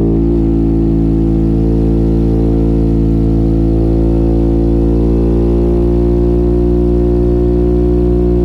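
Motorcycle engine with an aftermarket exhaust, running at steady revs; its note stays nearly level in pitch throughout.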